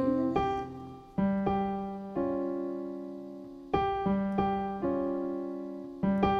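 Solo piano playing slow, sustained chords, about eight struck in turn, each left to ring and fade before the next.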